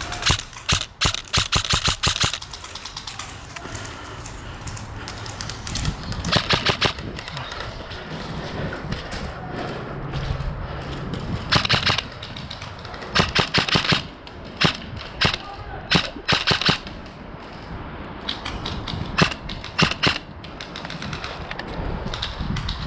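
Airsoft guns firing several bursts of rapid automatic fire, each a second or two long, with short pauses between them.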